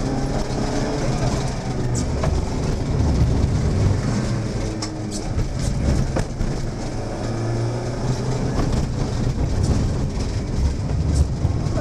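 Fiat Seicento rally car's small four-cylinder engine heard from inside the cabin, driven hard with the revs rising and falling as it accelerates and slows through the course, over tyre and road noise on wet tarmac. A few sharp knocks sound through it.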